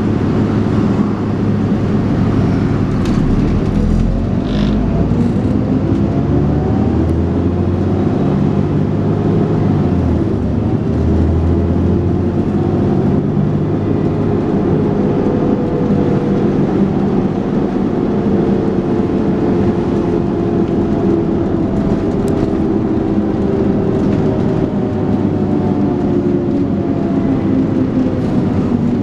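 Dennis Trident 2 double-decker bus's diesel engine and automatic gearbox under way, heard on board. The engine note climbs as the bus accelerates and falls away as it eases off, more than once, over a steady road rumble.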